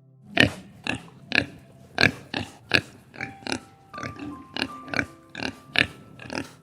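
A string of short, sharp animal grunts, about two a second, over soft background music with held notes.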